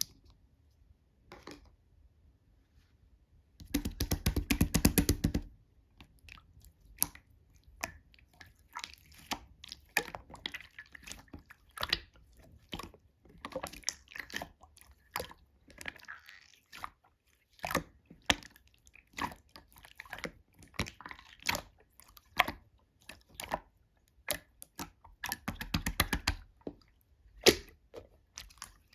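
Slime being squished and pressed by hand, giving small sticky clicks and pops. There is a dense run of rapid crackling about four seconds in and another near the end, with scattered pops between.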